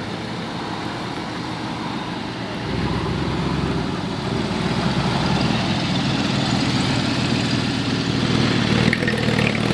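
Car engine running, getting louder about three seconds in.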